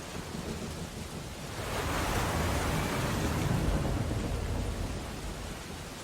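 Storm ambience of steady rain, with a louder surge of deep rumble and hiss that swells up about a second and a half in and dies away over some three seconds.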